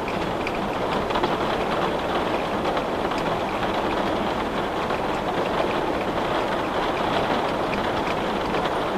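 Steady rain falling, with scattered small ticks of drops striking a window pane.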